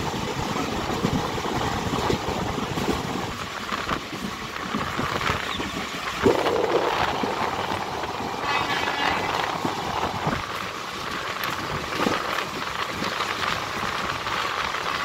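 Passenger train coach running at speed, heard from an open doorway: a steady rumble and rush with the repeated clatter of wheels over the rail joints. There is a louder knock about six seconds in and a brief high ringing about two seconds later.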